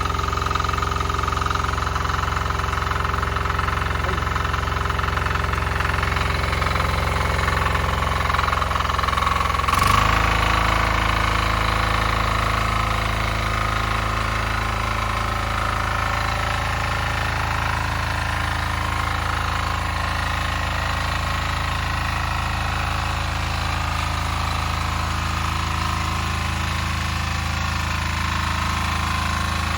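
Weima diesel walk-behind tractor's single-cylinder engine running steadily with a knocking diesel beat. About ten seconds in there is a sharp click and the engine's note changes, then it runs on steadily.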